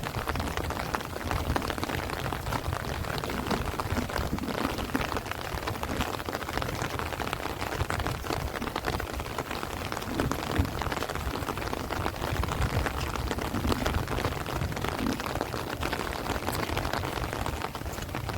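Heavy rain falling steadily on rice plants and trees, dense with the ticks of single drops, over a steady low rumble of wind.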